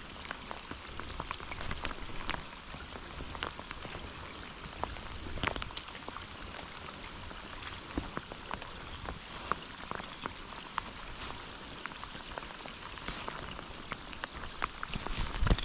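Rain falling: a steady hiss with many scattered sharp ticks of drops hitting surfaces.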